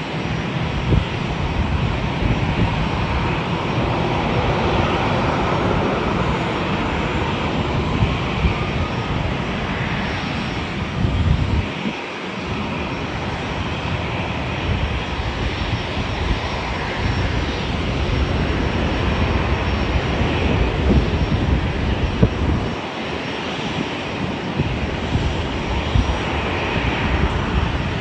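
Airliner engines running, a steady loud rumble with a faint high whine held throughout.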